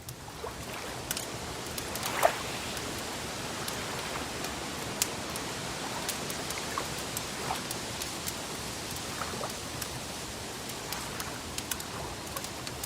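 Crackling fire: a steady hiss with scattered sharp pops, one louder pop about two seconds in.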